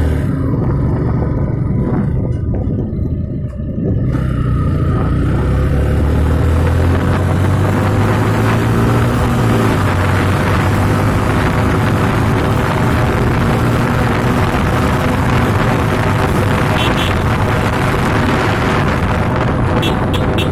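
Yamaha FZ motorcycle being ridden. The engine note climbs as it accelerates from about four seconds in, then settles into steady running with a loud, even rush of noise.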